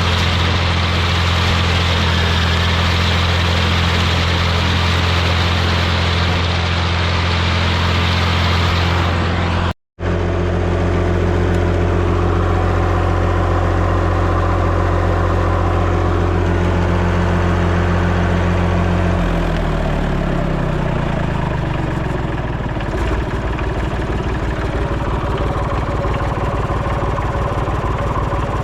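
Massey Ferguson 245 diesel tractor engine running steadily at working speed after half an hour of mowing, then throttled down about twenty seconds in, its pitch falling over a few seconds to a slow, uneven idle.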